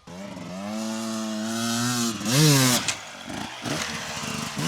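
Yamaha YZ250 two-stroke dirt bike engine coming in suddenly and pulling steadily, then revving sharply about two seconds in. It eases off to a lower, uneven note and revs up again near the end.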